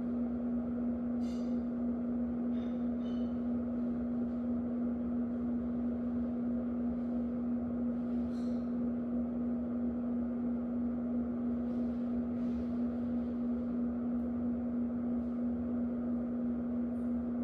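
Electric fan running steadily: a constant hum with one strong steady tone over an airy whoosh. A few faint, brief high-pitched sounds come through in the background.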